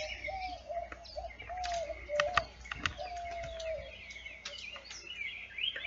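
Several wild birds singing and chirping in a quick mix of short calls, with a lower, held note that comes back several times.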